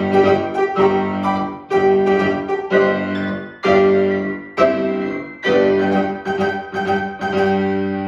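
Piano played four hands, striking full, ringing chords about once a second, each left to sustain before the next.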